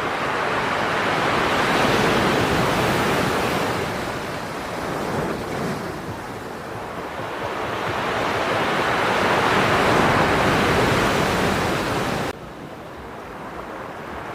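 Storm surf: heavy waves breaking on the shore, the roar swelling up twice and falling away between, with a sudden drop in level near the end.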